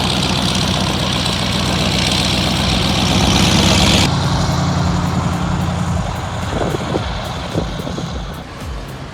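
Heavy truck's diesel engine running steadily at low revs. A loud steady hiss lies over it for the first four seconds and cuts off abruptly.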